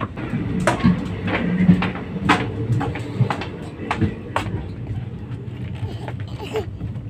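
Running passenger train heard from inside a sleeper coach: a steady low rumble, with a string of sharp clicks and knocks over the first four seconds or so that then die down.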